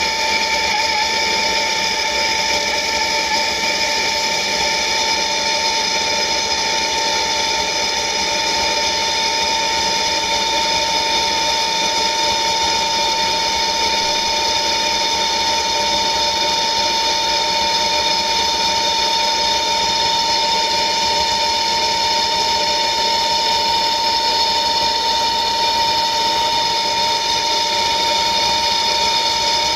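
Plumber's gas blowtorch burning steadily, a constant hiss with a steady whistling tone, heating a copper pipe joint for soldering.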